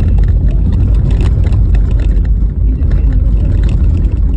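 Car driving on a rough, snow-covered road: a heavy, steady low rumble of tyre and road noise, with frequent small knocks and rattles from the uneven surface.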